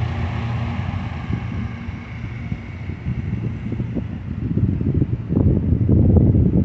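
Passenger train running past on the rails, its steady rumble fading as the last cars move away. Wind buffets the microphone with irregular low thumps that grow stronger over the last few seconds.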